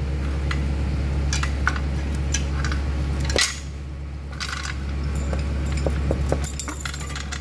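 Scattered light metal clinks and rattles of tools and parts being handled during engine work, over a steady low hum, with one louder clank about three and a half seconds in.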